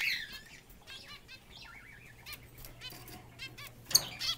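Pet finches chirping in many short, repeated high calls, with a single sharp knock about four seconds in.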